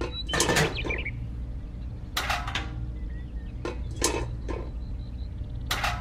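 A handful of light, irregular knocks and clinks as small plastic and tin toy parts are set down and handled, over a steady low hum.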